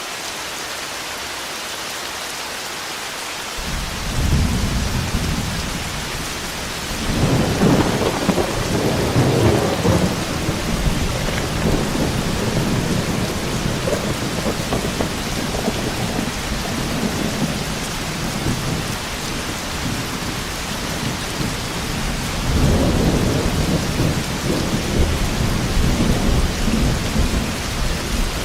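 Heavy steady rain with rolling thunder. A deep rumble comes in a few seconds in, with a loud roll of thunder a quarter of the way through and another about two thirds of the way through.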